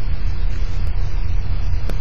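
Thunderstorm wind buffeting the outdoor microphone: a loud, steady low rumble, with two sharp ticks, one a little before the middle and one near the end.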